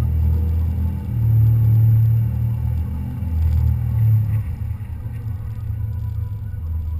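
Car driving, a low engine and road rumble that swells twice, then settles to a steadier, quieter drone about four and a half seconds in.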